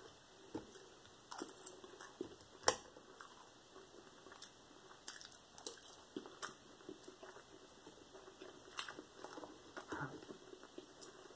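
A person chewing and eating breakfast food, with faint scattered mouth sounds and small clicks. One sharper click comes a little under three seconds in.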